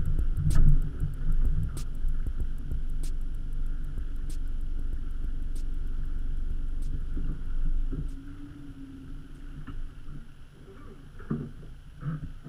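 Vehicle engine idling, a steady low rumble heard through the bonnet-mounted camera, with a faint tick about every second and a quarter. The rumble falls away about eight seconds in, leaving a few small knocks.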